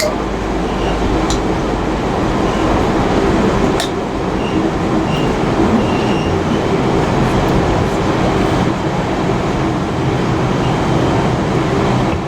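Heritage railway carriage running along the track, heard from inside: a steady loud rumble of wheels and running gear on the rails, with a couple of sharp clicks in the first few seconds and faint brief high squeals.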